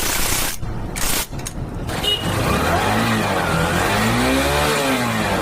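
Honda CB Shine's 125 cc single-cylinder four-stroke engine running, revved up and let back down twice in the latter half.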